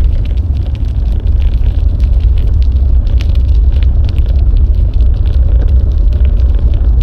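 Wind buffeting an action camera's microphone while riding a bicycle: a loud, steady, deep rumble, with scattered small clicks and rattles over it.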